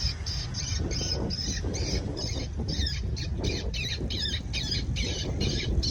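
Recorded bird squawks played back through a speaker: a fast, evenly spaced series of high, harsh calls, a bit over two a second, over a low rumble of wind and riding noise.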